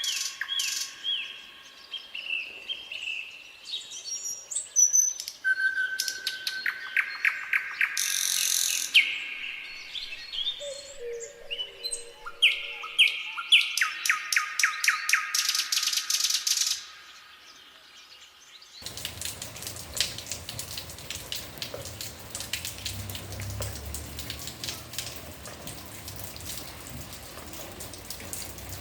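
Songbirds singing, with repeated trills and clear whistled notes. After a brief lull about two-thirds of the way in, the birdsong gives way to a dense, steady patter with a low rumble.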